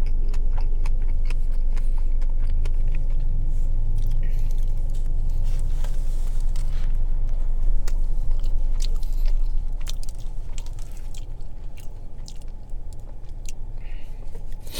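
Close-up chewing and biting of a toasted sub sandwich, with many small wet mouth clicks, over a low steady rumble that drops off about two-thirds of the way through.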